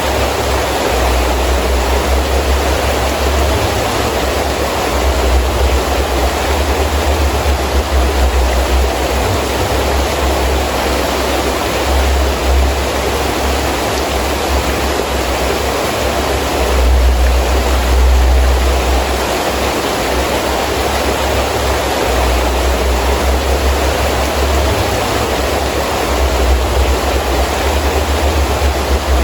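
Heavy rain pouring steadily, with gusting wind that adds a low rumble swelling and easing several times, strongest a little past the middle.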